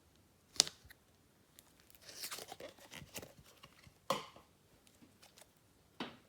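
Hands playing with a swirled clay slime: a sharp sticky pop about half a second in, a stretch of crackly squishing in the middle, and two more pops near the end.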